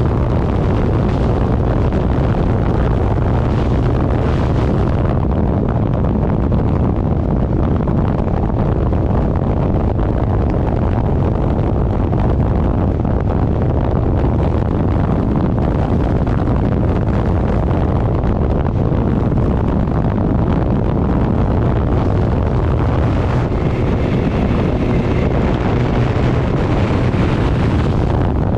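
Heavy wind rushing over the microphone of a 1000 cc motorcycle riding at speed, with the engine running underneath.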